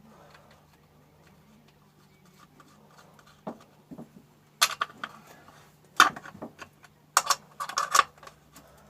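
Small metal clicks and clinks, about half a dozen spread through the second half, as the bar nuts are handled and fitted loosely onto the studs of a Stihl chainsaw.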